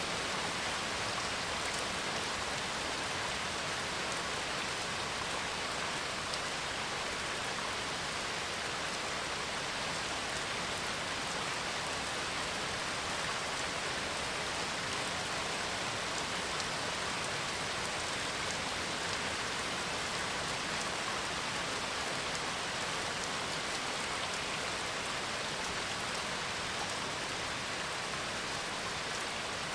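Steady rain falling, an even hiss of rainfall with no thunder.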